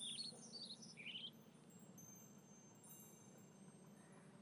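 Near silence, with a few faint, short high chirps of birdsong in the first second or so.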